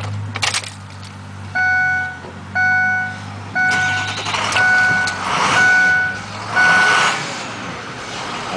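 Ford F-250's Power Stroke turbo diesel idling as a steady low drone, with an electronic warning chime beeping about once a second, six times, starting about a second and a half in. A few clicks near the start.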